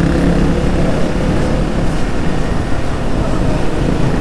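Hero XPulse 200 single-cylinder motorcycle engine running steadily while riding, mixed with wind and road noise.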